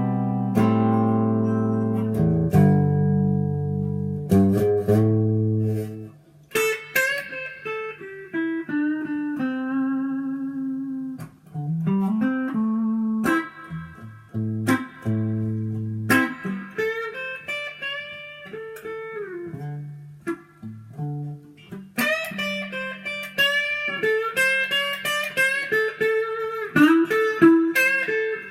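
Gibson Flying V electric guitar playing a few held chords, then a bluesy single-note lead with string bends.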